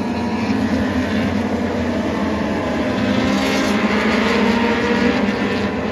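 Racing motorcycles running at speed past the trackside, a loud, continuous engine noise that swells a little about three to five seconds in.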